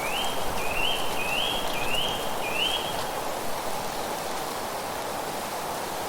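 A songbird gives five whistled notes in a row, each sliding upward and then holding, over the first three seconds, against a steady rushing noise of wind and rustling leaves.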